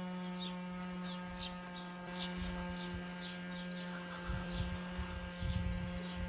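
Small electric motor of a bubble machine running with a steady hum, with short high chirps over it and a few low thumps in the second half.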